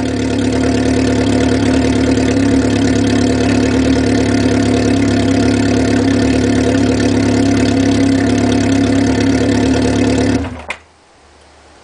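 Kawasaki KZ750 motorcycle engine idling steadily through a Kerker exhaust with its muffler off. The engine cuts off suddenly about ten seconds in, with a short click as it stops.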